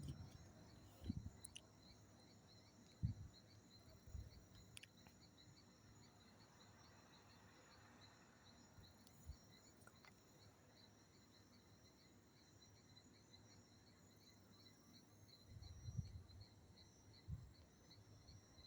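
Faint insects chirping: a steady, rapid high-pitched pulsing under near silence, with a few soft low thumps.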